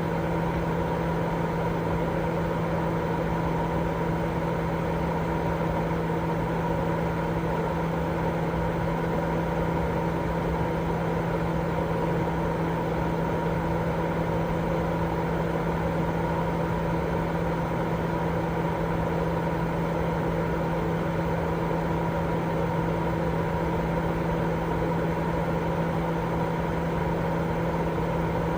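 Continuous white noise for infant sleep: a steady, unchanging rushing noise, heavier in the low and middle range, with a steady low hum and fainter steady tones above it.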